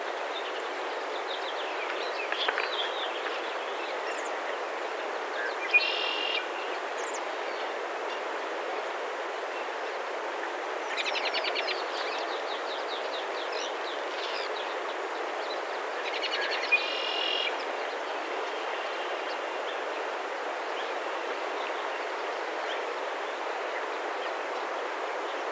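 A songbird sings short, quickly repeated high trills, each about a second long, three times over a steady, even rushing background noise.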